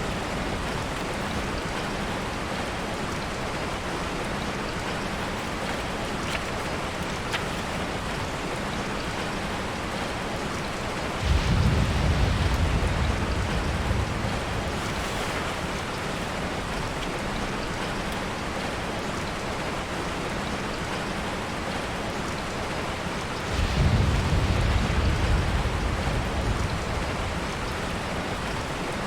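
Steady rain falling on a tarp shelter. Two low rumbles about three seconds long rise suddenly over it, about eleven seconds in and again about twenty-four seconds in.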